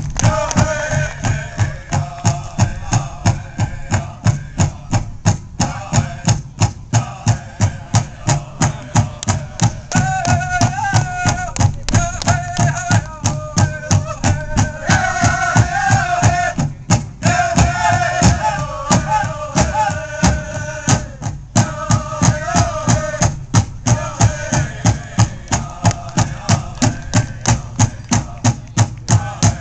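Powwow drum group: a big drum struck in a steady beat of about two strokes a second, with the singers' high voices carrying the song in phrases over it.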